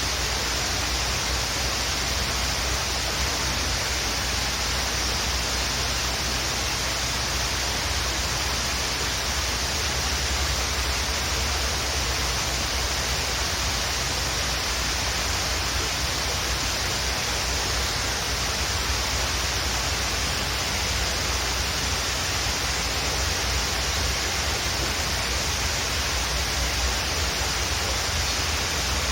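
Waterfall rushing steadily: an even, unbroken wash of falling water with a low rumble underneath.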